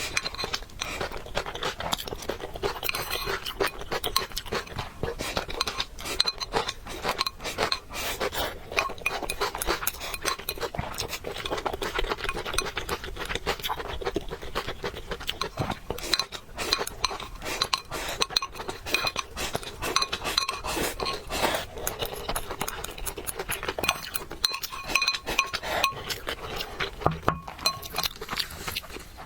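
Cutlery clinking against a dish while noodles are eaten, a dense run of small clicks and light rings that keeps on without a break.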